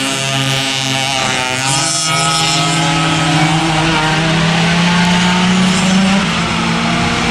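Racing kart engines running at high revs, more than one engine heard at once, one climbing slowly in pitch as it accelerates.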